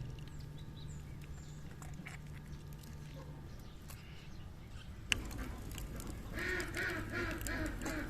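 A farm animal calling in a wavering, pitched voice from about six seconds in, after a sharp click, over a low steady hum.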